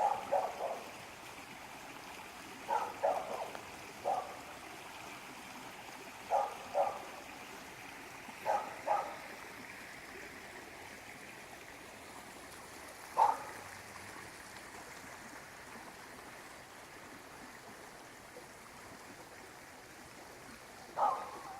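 Stream water running steadily under the bridge, with short, sharp animal calls every few seconds, often two in quick succession, in the manner of a dog barking in the distance.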